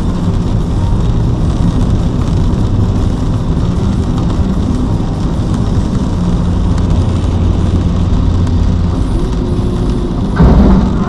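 Steady low rumble of a moving vehicle. About ten seconds in comes a sudden loud noise lasting about half a second, the loudest moment.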